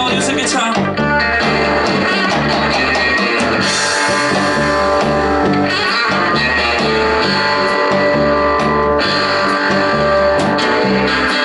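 Live blues band playing a rumba-beat instrumental break: guitar over a repeating bass riff and drums with cymbals.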